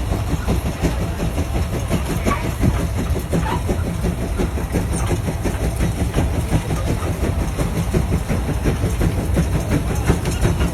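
Heavy farm tractor's engine running steadily with a rapid, even low beat.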